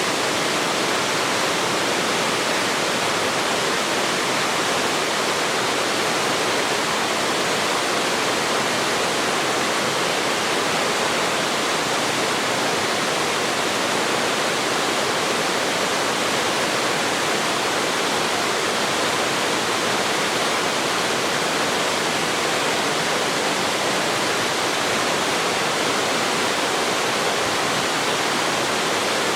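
Waterfall pouring steadily into a mountain stream: a constant, even rush of falling water.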